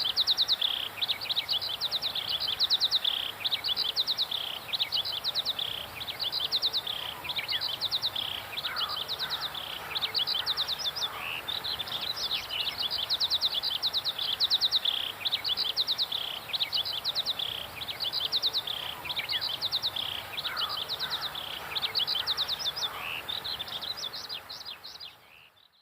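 Birds singing: quick, high trilled phrases repeated over and over, with a lower bird calling now and then. The song fades out near the end.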